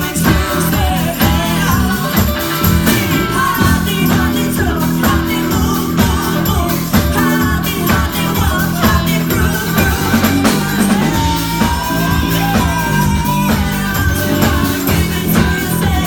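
Live band performing a pop-rock song with a steady beat, a voice singing wavering lines over it.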